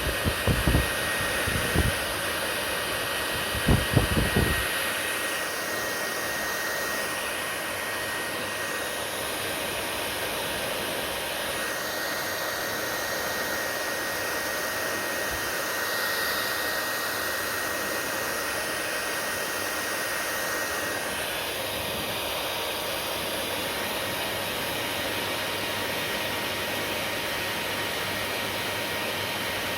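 Hair dryer running steadily: a continuous rush of blown air with a thin, steady whine, its sound shifting slightly a few times. A few low thumps come in the first few seconds.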